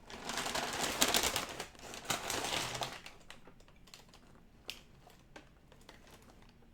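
Crinkling and rustling of packaging being handled and opened, loudest for the first three seconds, followed by a few quieter clicks and taps.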